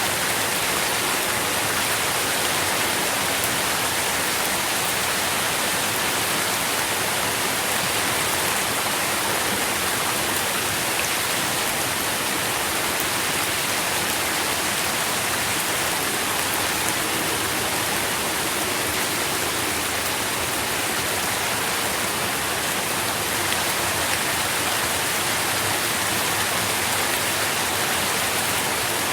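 Steady rain with a dense, even hiss and patter, unchanging throughout.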